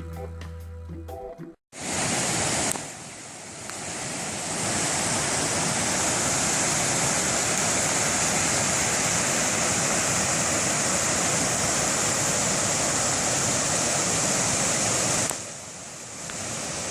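Rushing water of a waterfall: a steady, even rush of falling water that comes in about two seconds in, after a snatch of music cuts off, and briefly drops quieter twice.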